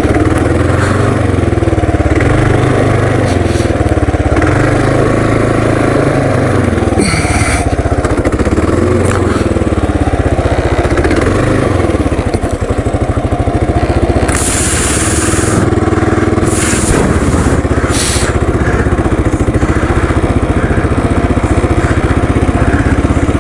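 Kawasaki KLR650's single-cylinder engine with stock exhaust, running under way as the motorcycle is ridden, its revs rising and falling. A few short bursts of rushing noise come through, the longest about halfway in.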